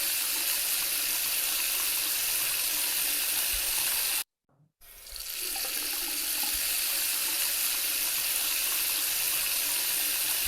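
Recorded sound effect of a sink tap running, a steady rush of water as in hand washing. It cuts off abruptly about four seconds in and starts again half a second later.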